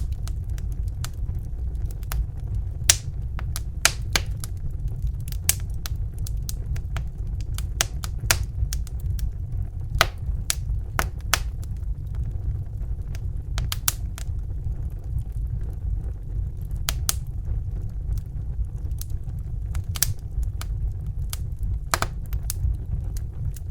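Crackling fire: irregular sharp pops and snaps, a few a second at most, over a steady low rumble.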